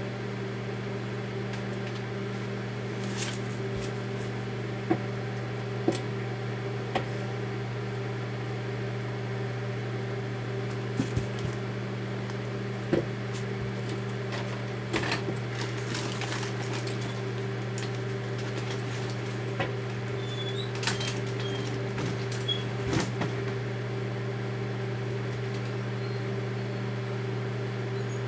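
Daewoo microwave oven running with a steady low hum, with sharp clicks scattered through it every second or few.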